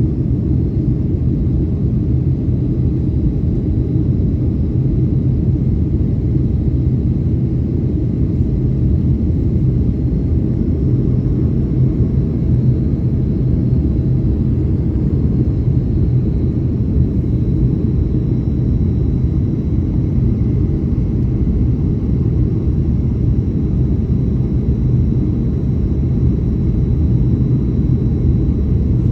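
Steady cabin noise inside a Boeing 737 in flight: a dense, even low rumble of engines and airflow, with a faint thin high whine running through it.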